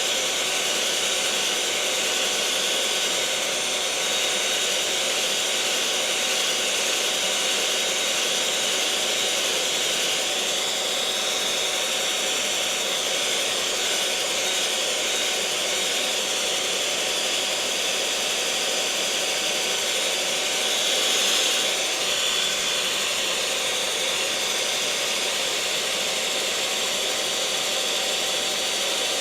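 Electric mixer motor running steadily at one speed: a constant whine made of several fixed tones over a hiss, briefly a little louder about two-thirds of the way through.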